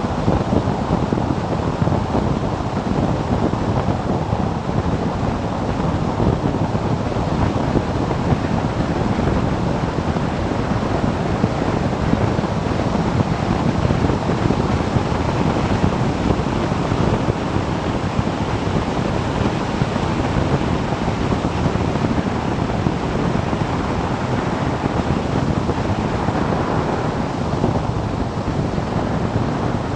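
Steady wind rush buffeting the microphone of a camera on a moving motorcycle, a dense, even roar of air with no distinct engine note.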